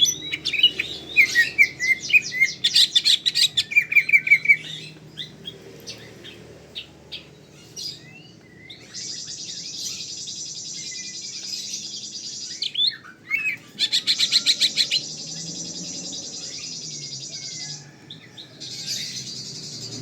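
Cucak ijo (greater green leafbird) in full song. It opens with a rapid run of varied chirps and whistles, then goes into long buzzing trills broken by a burst of quick clipped notes.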